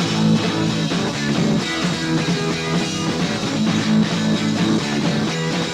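Punk rock band playing an instrumental passage with electric guitar, bass and drum kit, on a lo-fi four-track demo recording.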